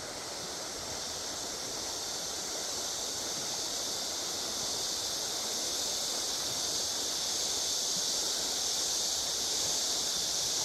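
Steady rushing of a river swollen after rain, an even hiss that grows slowly louder.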